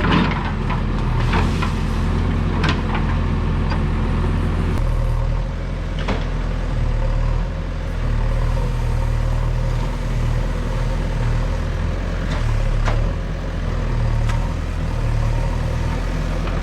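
Diesel engine of a JCB excavator running steadily, its note shifting about a third of the way in, with a few sharp knocks and clanks of the machine levelling soil.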